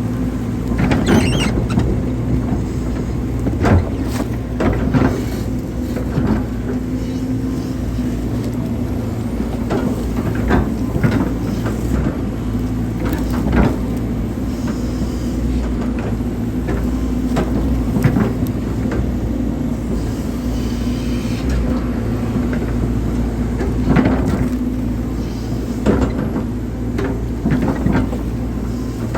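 Hydraulic excavator's diesel engine running steadily under load, with frequent knocks and clanks from the digging work.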